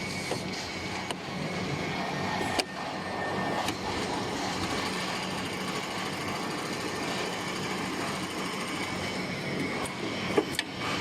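CNC template sewing machine running, a steady mechanical whirr with a few sharp clicks, one about two and a half seconds in and another near the end.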